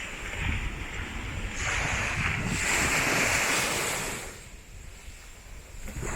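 Surf on a sandy beach with wind on the microphone: a wave swells up about one and a half seconds in, washes for a couple of seconds and fades, and the next one builds near the end.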